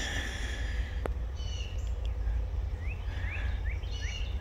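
A bird calling outdoors in a quick run of short rising chirps, about three a second, over a steady low rumble. A single sharp click about a second in comes as the brass T-handle hose valve is turned.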